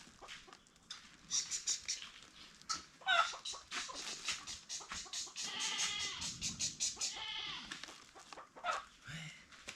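Farm animals calling: a goat bleating and chickens clucking, with a longer, wavering call from about five and a half to seven seconds in.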